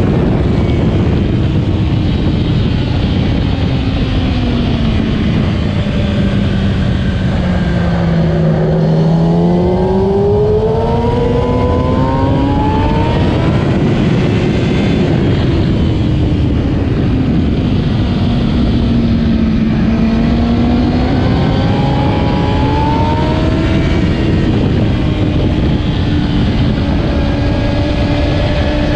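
2008 Kawasaki ZX-10R's inline-four engine being ridden hard on track, over a constant rushing noise. The engine pitch falls to a low about nine seconds in as the bike slows, climbs sharply as it accelerates away, dips again around twenty seconds in, then rises once more.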